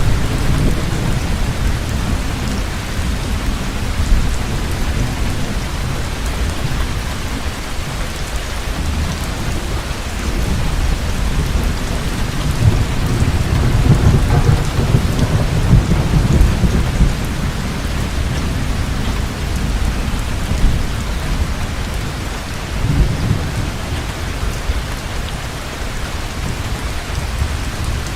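Heavy rain falling steadily, with low rolls of thunder rumbling underneath. The thunder swells at the start, grows longest and strongest about halfway through, and rolls again briefly near the end.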